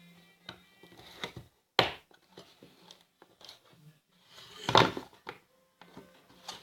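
Small handling noises of craft-kit parts being worked by hand: scattered light clicks and rustles, a sharp knock about two seconds in, and a louder rustle or scrape about five seconds in.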